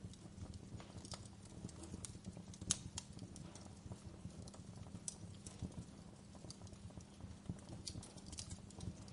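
Wood fire crackling: quick, irregular pops and snaps over a low steady rumble of the flames, with one sharper pop a little under three seconds in.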